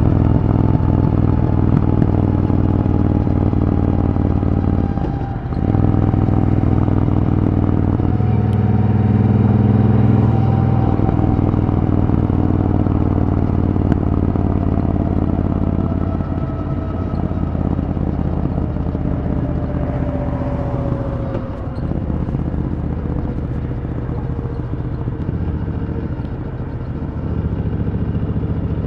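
Triumph Thunderbird Storm's parallel-twin engine and exhaust running steadily under way at autobahn speed. The note dips briefly and recovers about five seconds in and again around twenty-one seconds.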